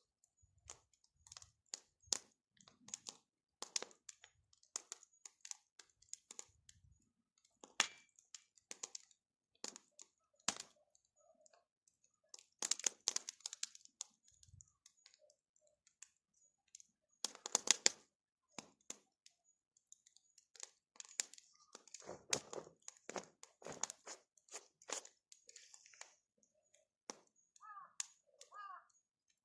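Bonfire crackling: burning wood snaps and pops at irregular moments, with a few louder cracks.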